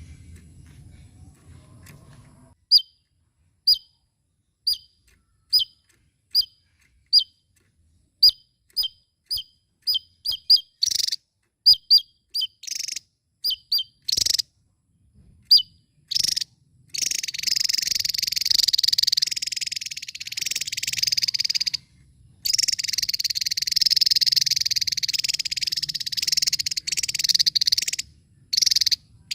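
Javan tesia giving sharp, high single chirps, about one a second at first and then faster, followed by long stretches of dense, unbroken high-pitched sound with a couple of short breaks.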